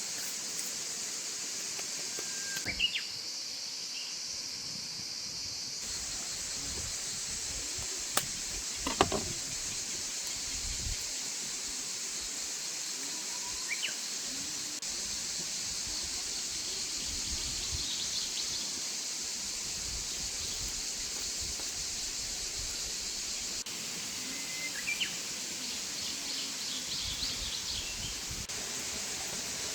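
Outdoor rural ambience: a steady high hiss with a few short bird chirps scattered through, and a couple of sharp clicks or knocks about a third of the way in.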